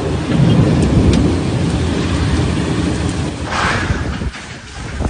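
Heavy rain with a low, rolling rumble of thunder, dying down near the end.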